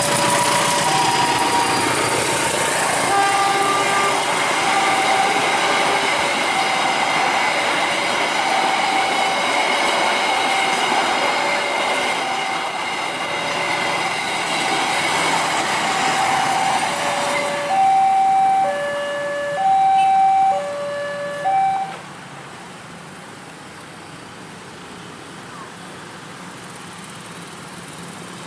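A train running through a level crossing while the crossing's warning alarm alternates between two notes. The train noise fades about two-thirds of the way in, the two-note alarm rings out clearly for a few seconds and then stops, and a steady low background noise is left.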